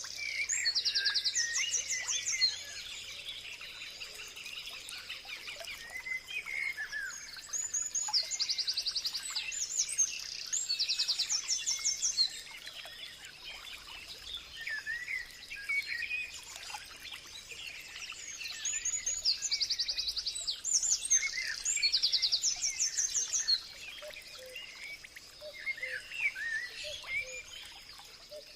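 Several birds singing and chirping, with bursts of fast, high trills every several seconds, over a faint steady high whine.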